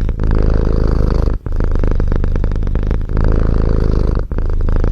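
Domestic cat purring loudly right at the microphone, a fast steady rumble with short breaks every second and a half or so.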